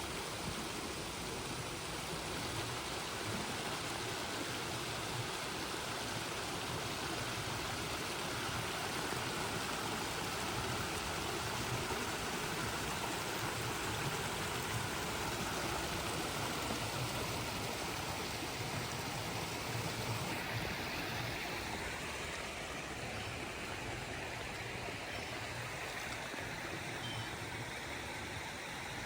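Steady rush of flowing stream water; the high hiss drops a little about twenty seconds in.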